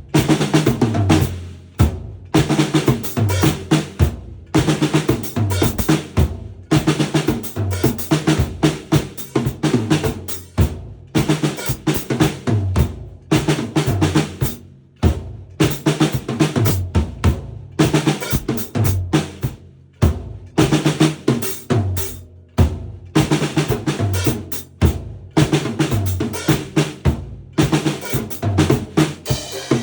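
A drum kit being played, with snare and bass drum strokes in runs of beats and fills broken by brief pauses every few seconds.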